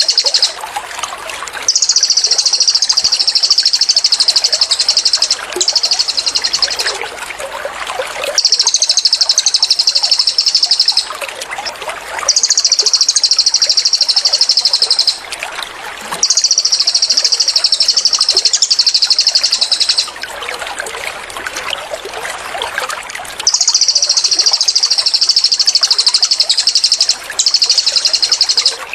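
Cililin bird song: long, rapid, high-pitched trills, each lasting two to four seconds, repeated about seven times with short pauses, over a steady trickle of running water.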